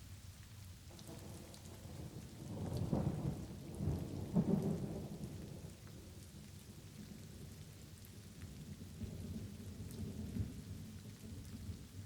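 Light rain falling steadily while thunder rolls in. It swells to a peak about three to five seconds in, and a second, weaker rumble follows near the end.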